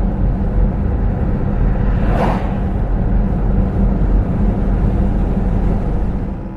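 Loud, steady low rumble with one brief whoosh about two seconds in.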